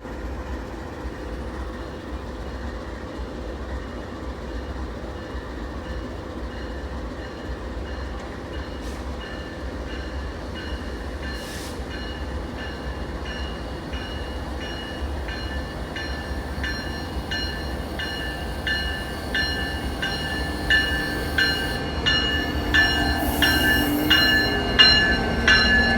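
Union Pacific train approaching, a steady low rumble growing louder, with a regular ringing tick about twice a second that builds over the second half.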